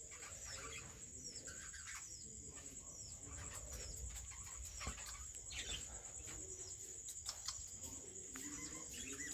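Many small aviary birds chirping in short falling notes over a steady high-pitched tone, with doves cooing low, mostly near the end.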